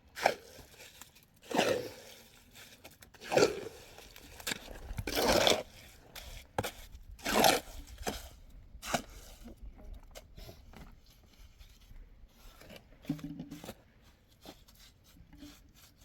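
A series of rough scraping, crunching strokes, about six of them roughly two seconds apart, then only faint clicks and taps in the second half.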